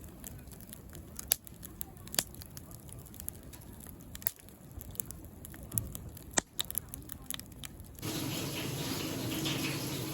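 Wood fire crackling, with scattered sharp pops of burning wood. About eight seconds in it cuts off abruptly and a louder, steady rushing noise takes over.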